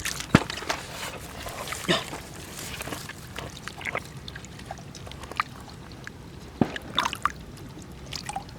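Shallow water being disturbed: scattered small splashes and trickles, with a few short sharp splashes.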